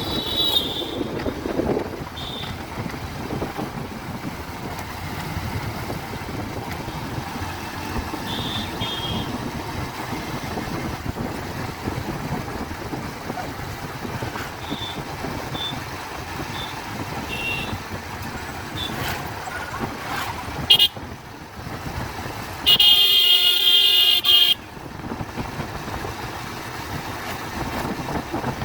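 Steady rushing road and wind noise of a Bajaj Pulsar 150 motorcycle being ridden in traffic, with several short high horn beeps. About 23 seconds in, one loud horn blast lasts nearly two seconds.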